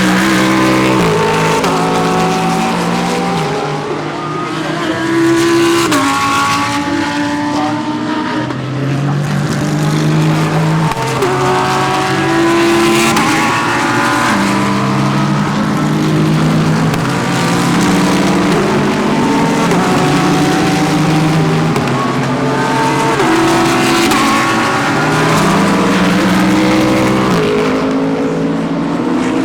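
Several GT3 race cars running through a corner one after another. Their engine notes overlap, with repeated stepwise pitch jumps as the drivers shift gears.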